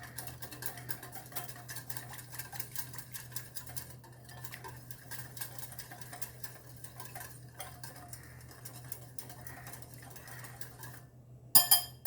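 A spoon stirring chili powder into mustard oil in a bowl, with many rapid small clicks and scrapes against the sides. A single sharp, louder clank comes near the end.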